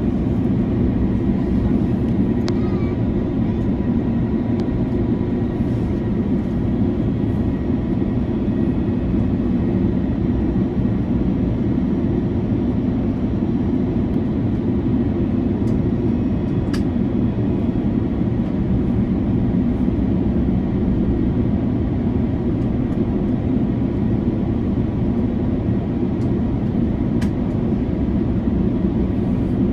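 Steady low cabin rumble of an Airbus A330-300 in cruise, from its Rolls-Royce Trent 700 engines and the airflow over the fuselage, with a few faint clicks.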